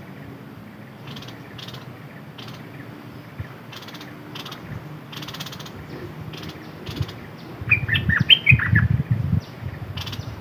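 A caged decoy bird gives a quick cluster of short chirps about eight seconds in, together with low fluttering or rustling. Faint scattered ticks and clicks run through the rest.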